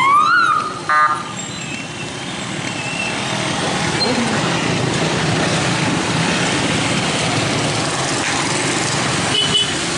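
A siren wail rises and cuts off right at the start, a short horn honk sounds about a second in, and then steady street traffic noise follows with faint voices.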